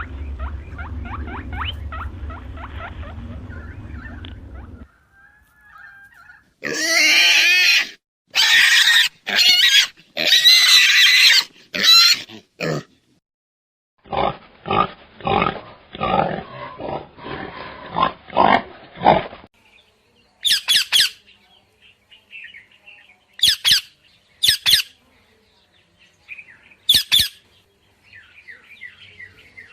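A series of different animal calls cut one after another. A low rumble with fine pattering gives way to several loud, high-pitched calls. Next comes a quick run of short, evenly spaced pulses, then a few short, sharp calls with faint chirping between them.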